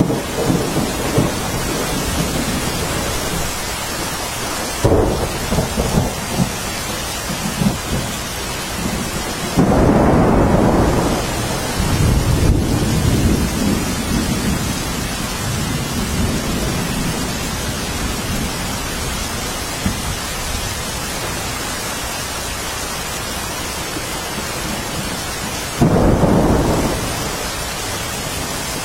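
Steady rain falling in a thunderstorm, with rolling thunder underneath. Louder thunderclaps break in suddenly about five seconds in, about ten seconds in, and near the end, each rumbling for a second or two.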